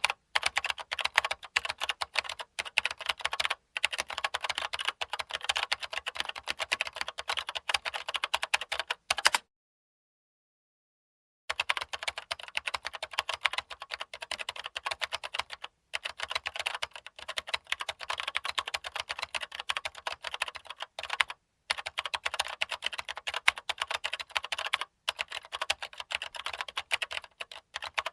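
Fast, continuous typing on a computer keyboard: a dense run of rapid key clicks, broken by a silent pause of about two seconds roughly nine seconds in and a few brief breaks.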